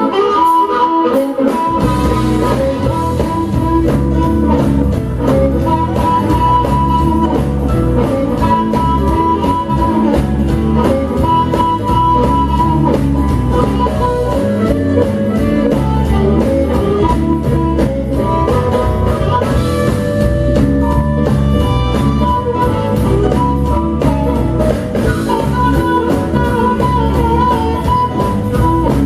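Live electric blues band playing, with guitar prominent. Bass and drums come in about two seconds in, and the full band keeps a steady groove after that.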